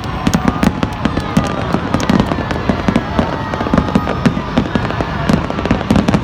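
Fireworks going off in a dense, continuous run of sharp cracks and bangs, many a second, with faint thin whistles wavering through them.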